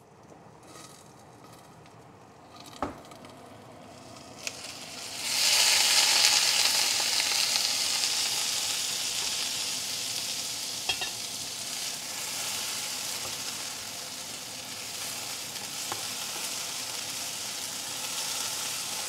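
Diced potatoes frying in bacon fat in a cast iron skillet. A faint sizzle under the lid is broken by a couple of knocks as the lid comes off, then a loud burst of sizzling about five seconds in slowly eases while a wooden spatula stirs and scrapes the potatoes.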